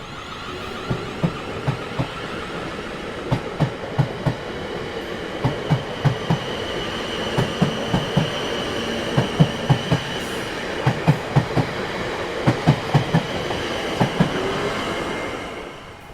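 Train running on rails, its wheels knocking over the rail joints in repeated pairs and groups of clicks, a clickety-clack over a steady rumble.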